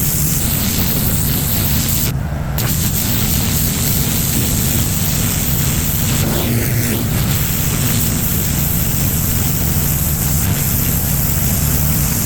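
Gas-engine pressure washer running steadily under a loud hiss of high-pressure water spray; the spray breaks off briefly about two seconds in while the engine keeps running.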